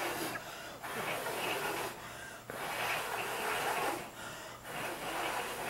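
A person blowing long breathy puffs of air, about four in a row, each roughly a second long with short gaps between.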